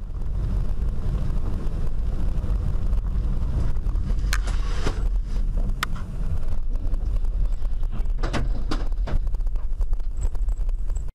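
A moving car: a steady low rumble of engine and road noise, with a few short sharp knocks, one about four seconds in, one about six seconds in, and two between eight and nine seconds in.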